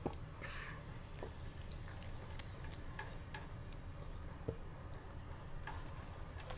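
A person eating chicken biryani: chewing and mouth smacks with scattered small clicks, over a steady low hum.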